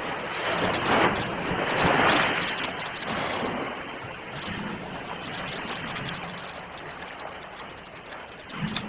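Steady rushing noise that swells about one and two seconds in, then eases off, with a brief low thump near the end.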